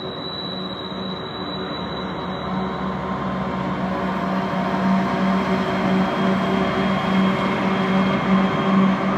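Union Pacific diesel locomotives hauling a double-stack container train, their engines running with a steady, pulsing low drone over the rumble of the train. The sound grows louder as the locomotives pass close by.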